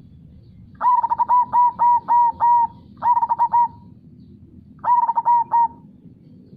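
Zebra dove (perkutut) cooing: a quick run of about seven repeated coo notes, then a phrase of three, then a phrase of four near the end. Underneath is a low, steady rush of flowing river water.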